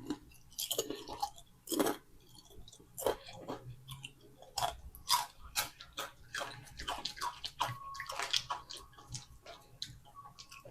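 Ketchup-flavoured potato chips being bitten and chewed: a run of irregular crisp crunches.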